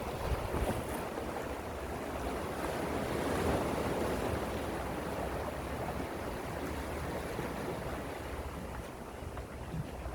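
Gentle sea waves washing in steadily, with one swell building about three to four seconds in.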